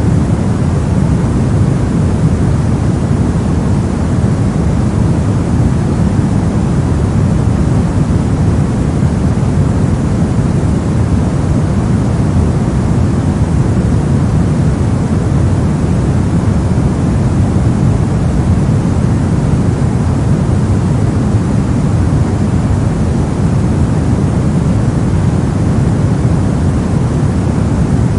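Steady brown noise: a continuous random hiss weighted heavily toward the low end, a deep even rumble with little high-frequency content.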